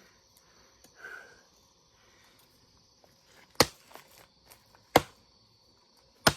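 An axe chopping into a hard log, three strikes about a second and a half apart in the second half, after a quiet start. Each blow lands sharply, with a short ring.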